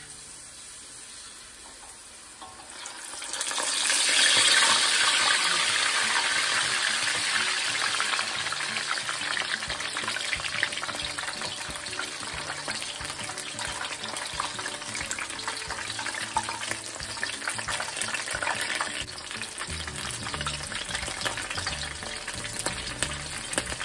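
Ukoy fritter of bean sprouts and shrimp in batter sizzling in hot oil in a wok as it is slid in. The sizzle jumps up sharply about three seconds in, then settles to a steady frying crackle.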